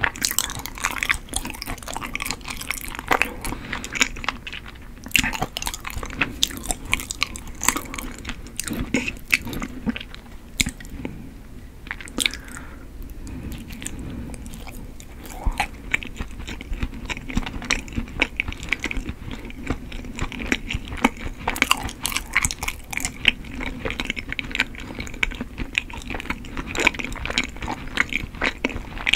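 Close-miked chewing of soft, chewy Korean rice cake (tteok): irregular wet, sticky mouth clicks and smacks. About halfway through there is a bite into a fresh piece.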